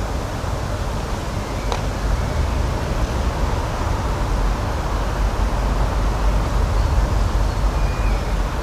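Steady outdoor nature ambience: an even rushing noise with a deep rumble underneath. A faint short chirp comes near the end.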